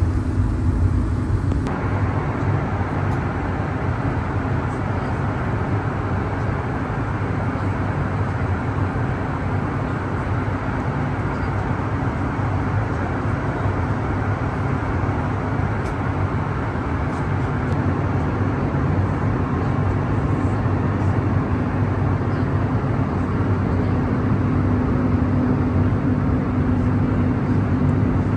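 Steady cabin noise inside an Airbus A321neo: an even rush of air with a low engine hum and a steady droning tone that grows a little stronger near the end.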